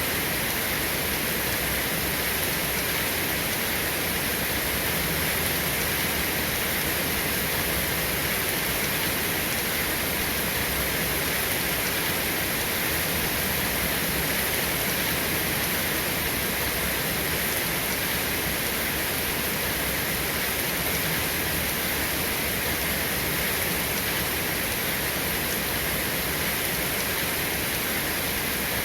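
Steady rain falling, an even hiss with no breaks, drops or thunder.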